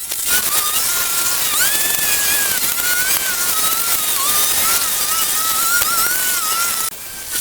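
Power tool running under load: a high whine that wavers up and down in pitch over a hissing noise, broken off briefly near the end.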